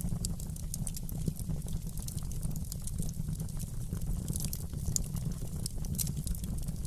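Fireplace fire crackling: many small, irregular sharp pops over a steady low rumble of the flames.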